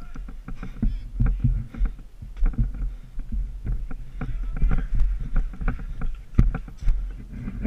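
Low rumbling wind and handling noise on a body-worn camera microphone, with many irregular clicks and knocks from a player moving with gear during an airsoft game.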